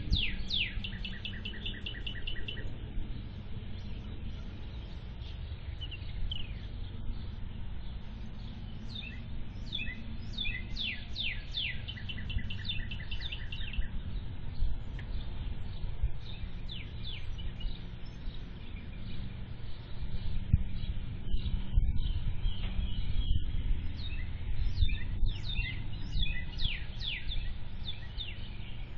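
Birds calling: repeated short, quick downward chirps and rapid trills, over a steady low rumble.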